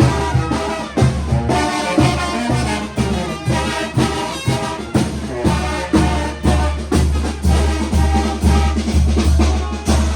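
Brass band music: brass instruments playing a melody over a steady drum beat of about two beats a second, with the low drum strokes heaviest in the second half.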